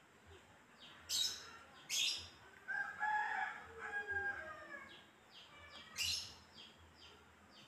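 Birds chirping: a few sharp, loud chirps, a longer pitched call about three seconds in, and a run of short quick chirps near the end.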